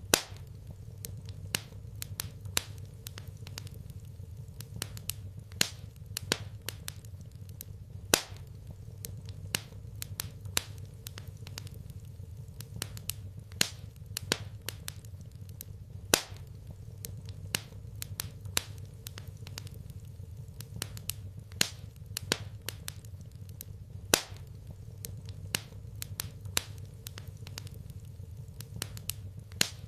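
Wood fire crackling in a fireplace: irregular sharp pops and snaps over a low steady rumble. The loudest pop comes about every eight seconds.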